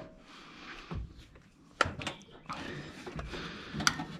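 Hand tools knocking and clicking against metal as a socket and extension are worked onto a stubborn bolt: a few sharp clicks, the clearest about two seconds in and another near the end.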